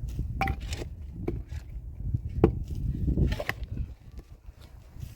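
Several irregular sharp knocks on wood, as in building work, the loudest about two and a half seconds in.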